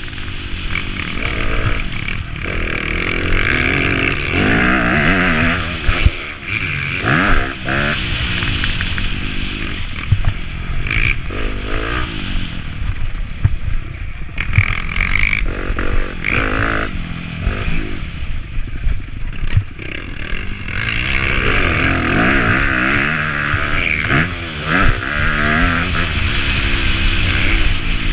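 Motocross bike engine revving hard, its pitch rising and falling again and again as the throttle opens and closes, with sharp knocks and clatter scattered through.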